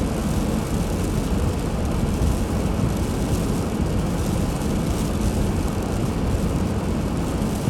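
Steady low rumble of a car driving on a snowy road: tyre and engine noise with no breaks or distinct events.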